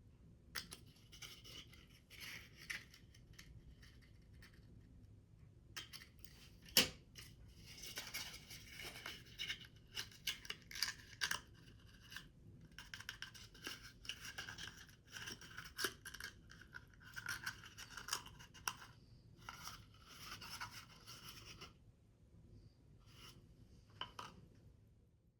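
Scissors cutting paper, with paper rustling and handling: irregular crisp snips and rustles, with a single sharp click about 7 seconds in.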